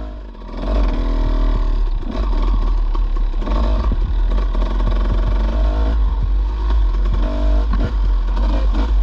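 Dirt bike engine running under throttle on a trail ride, its pitch rising and falling as the rider works the throttle. It eases off briefly at the very start and then picks up again.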